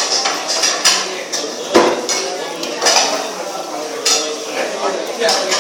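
Cutlery and plates clinking and scraping irregularly as people eat a meal, with a louder knock about two seconds in.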